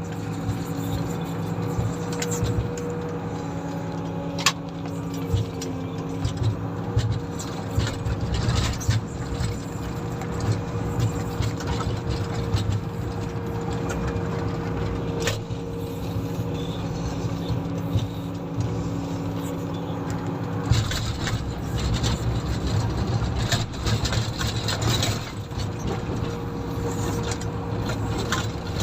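Komatsu motor grader's diesel engine running steadily under load, with occasional sharp knocks and rattles from the machine. The steady engine tones fade about two-thirds of the way through and a rougher rumble takes over.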